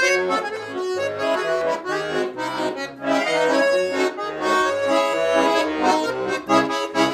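Russian garmon playing a folk-song melody alone, without voice, over an even, rhythmic bass-and-chord accompaniment.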